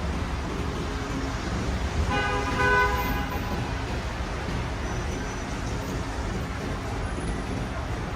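A car horn sounds once, a single blast of about a second and a half, about two seconds in, over the steady hiss of heavy rain and city street traffic.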